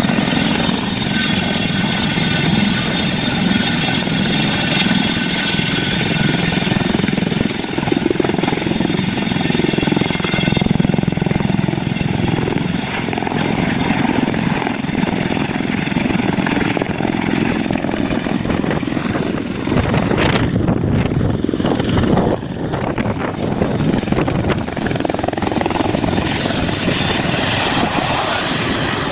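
A Boeing CH-47 Chinook, a tandem-rotor twin-turbine helicopter, running close by: a loud, steady rotor roar with a high whine over it that fades about a third of the way through. There is a rougher, gusty stretch about two-thirds in.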